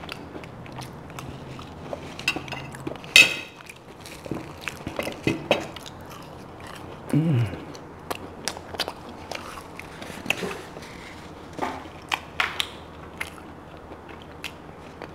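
Close-miked chewing and mouth sounds of a person eating. They come as many small clicks and smacks, with one sharp click about three seconds in and a short falling hum about seven seconds in.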